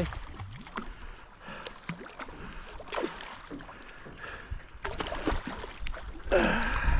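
Wind buffeting the microphone and water lapping around a small anchored boat, with a few short knocks and splashes as a hooked queenfish is landed. A louder gust of low rumble comes near the end.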